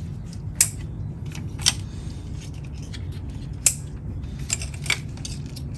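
Hand work on the engine's ignition parts: about five sharp metallic clicks and clinks of tools and parts, over a steady low hum.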